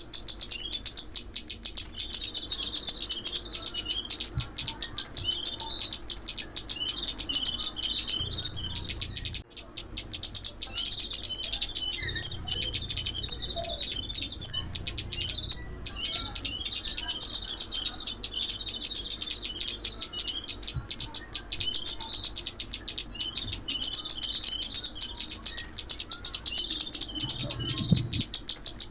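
Rapid, high-pitched twittering chirps and trills of a small songbird, the Vietnamese 'chim óc mít', repeated almost without pause over a thin steady high tone, with a brief break about halfway through.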